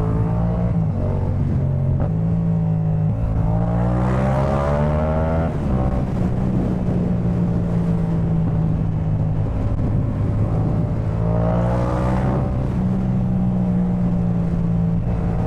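Yamaha MT-07's 689 cc parallel-twin engine through a Jeskap K4 full aftermarket exhaust while riding: revs climb twice, around four and twelve seconds in, with steady running between.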